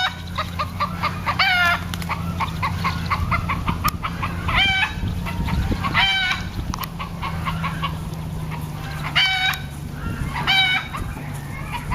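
Chickens clucking, with a louder stepped call every second or few, over a steady low hum.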